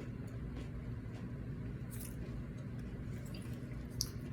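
Quiet close-up chewing of tortilla scoop chips loaded with cheesy chili dip, with a couple of faint soft crunches, over a steady low background hum.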